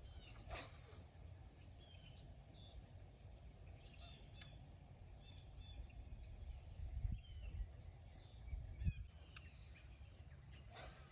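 Songbirds chirping in short repeated calls over a low, uneven rumble of wind on the microphone, with a brief sharp swish about half a second in and another near the end.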